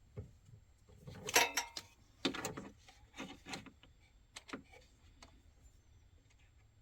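A series of metallic clanks and knocks from hand tools and parts being handled during car repair work. The loudest, about a second and a half in, rings briefly; the rest come irregularly over the next three seconds.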